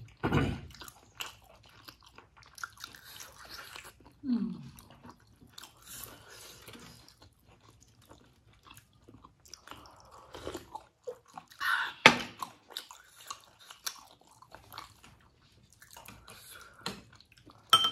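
Close-up mouth sounds of people chewing and biting steamed momo dumplings: wet smacks and small clicks, with a short hum about four seconds in. A single sharp click about twelve seconds in is the loudest sound.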